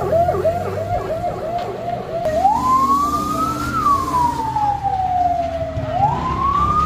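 Emergency vehicle siren switching from a fast yelp, about four cycles a second, to a slow wail that rises and falls twice, over a low engine rumble.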